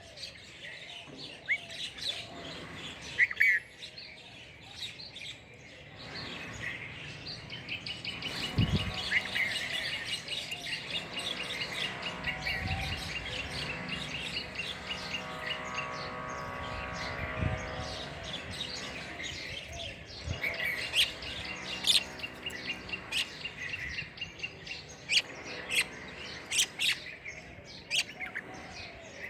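Small birds chirping, with many short high calls throughout and a busier stretch of overlapping calls in the middle.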